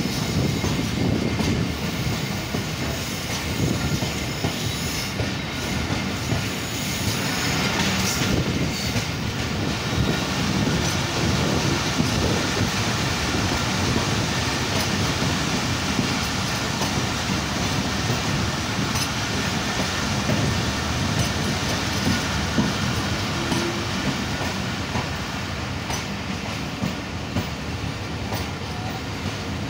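Passenger express coach running on rails, heard from its open doorway: a steady wheel rumble with a clatter over rail joints and a faint high squeal of wheels on the rails. The noise eases slightly near the end as the train slows into the station.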